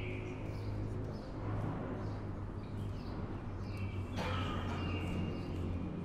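Outdoor ambience: birds chirping in short phrases over a steady low hum, with a sharp click about four seconds in.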